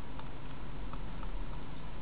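Steady hum from a nest-box webcam's microphone, with a few faint ticks and scratches of great tits moving in the nest.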